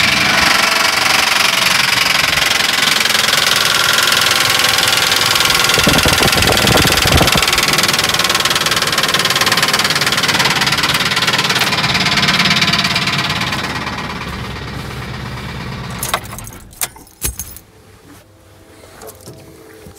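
A 2005 Ford F-150's 4.6L V8 running with an abnormal noise that the mechanic traces to the passenger-side valve cover and suspects comes from the valve train. The engine dies away about fourteen seconds in, followed by a few sharp clicks and knocks.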